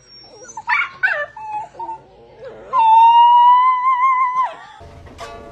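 A pet crying: a few short, bending calls, then one long, high, steady whining cry of about a second and a half.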